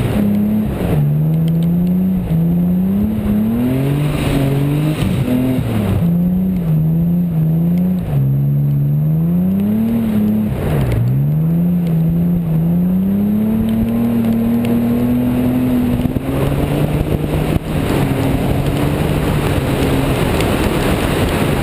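BMW E28 528's straight-six engine revved up and down several times, then dipping about eleven seconds in and climbing steadily as the car pulls away. Wind and wet-road hiss grow near the end.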